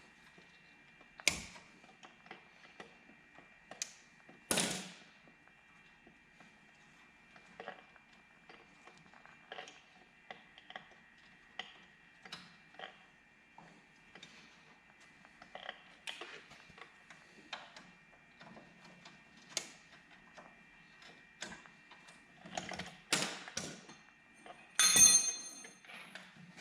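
Hand tools working on the bolts of a truck's front brake caliper: scattered metallic clicks, knocks and clanks, with a ringing clang of metal near the end. A faint steady high whine sits underneath.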